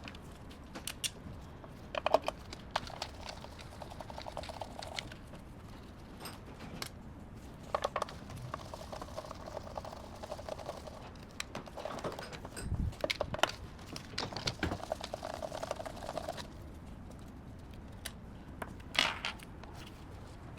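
Scattered light clicks and small clattering handling noises, irregular and spread across the whole stretch.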